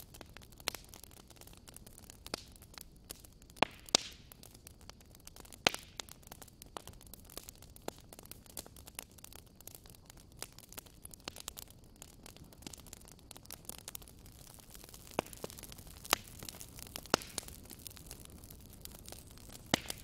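Wood logs burning in a fire, crackling with irregular sharp pops over a soft steady hiss. The loudest pops come about four seconds in, near six seconds, and again around sixteen and seventeen seconds.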